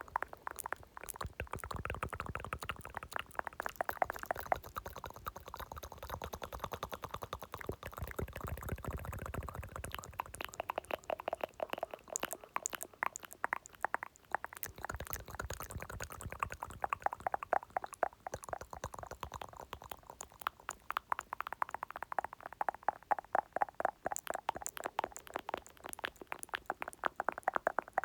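Close-miked ASMR mouth sounds: rapid, continuous wet clicking and smacking of tongue and lips.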